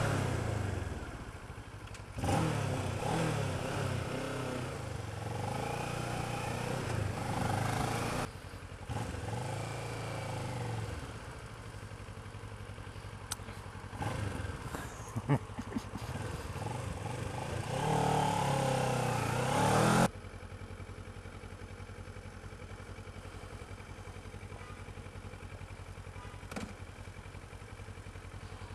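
Motorcycle engine running on the move, its pitch rising and falling as it revs up and eases off several times, with a few sharp clicks about halfway through. About twenty seconds in the sound cuts abruptly to a quieter, steady engine hum.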